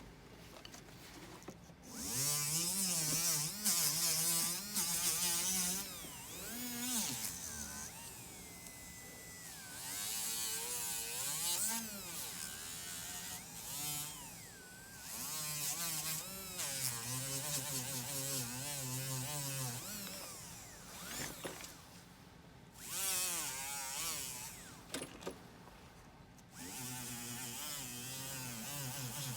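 A small electric rotary tool, such as a jeweller's handpiece, runs in several bursts, its buzzing pitch wavering up and down, with a high hiss in some stretches.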